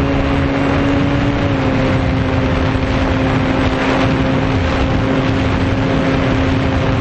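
RC foam airplane's electric motor and propeller running at a steady pitch over heavy wind rush, loud and close as if from a camera on the plane. The pitch dips slightly about a second and a half in, as the throttle eases.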